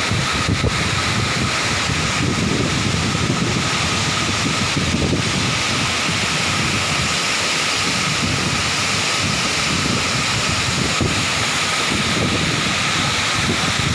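Steady rushing noise with wind buffeting the microphone in uneven gusts.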